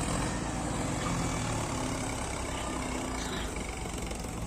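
Heavy diesel engine running steadily with an even, low engine note.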